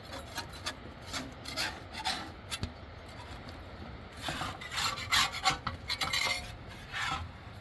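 Irregular scraping or rubbing strokes, growing louder and quicker about four seconds in.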